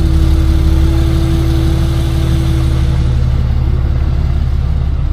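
Tow truck engine running at a steady idle, with a steady whine over it that stops about three seconds in.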